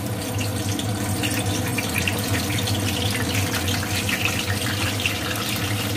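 Whole brinjals frying in hot mustard oil in a kadai: a steady sizzle with fine crackling.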